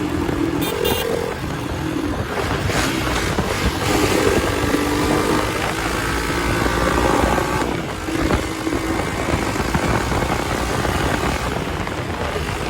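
Hero Xpulse 200's single-cylinder engine running through an aftermarket exhaust while the bike is ridden, with heavy wind noise on the microphone.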